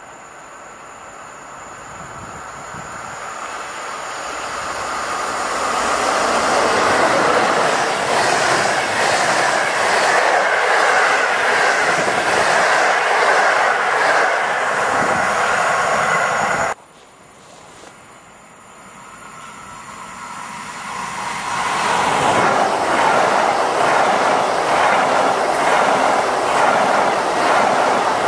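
A passenger train approaches and passes close at speed, its wheel-and-rail noise swelling and then running loud with a rapid clatter. The sound cuts off abruptly about 17 seconds in. A second swell then builds as a PKP Intercity Pendolino ED250 high-speed electric unit approaches and passes close on the near track.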